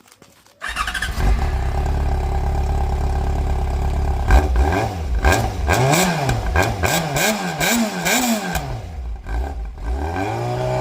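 Yamaha FZ6 S2's inline-four engine, breathing through a drilled-out exhaust silencer, starting up just under a second in and idling steadily. From about halfway it is blipped through a run of quick revs, rising and falling several times, then drops back and begins rising again near the end.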